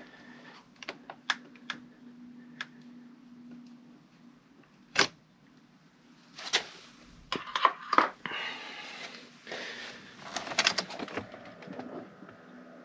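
Scattered sharp clicks and knocks of hands handling things, with louder clatters about five and eight seconds in.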